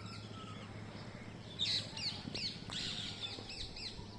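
Green parrots calling: a quick run of about seven shrill, arched calls starting about a second and a half in.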